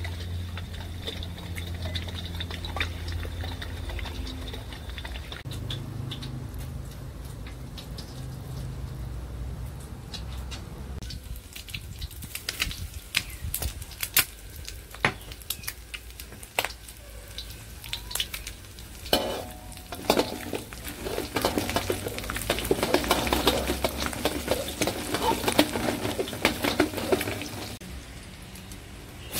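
Oil sizzling and crackling in a wok as food fries, with a steel wok spatula clinking and scraping against the pan. There is a low steady hum at first, then sharp metal clicks from about halfway through, and the crackle grows dense and louder near the end.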